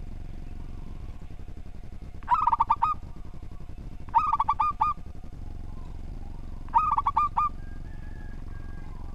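Zebra dove (local perkutut) cooing: three short phrases, each a quick run of about six notes, spaced a couple of seconds apart.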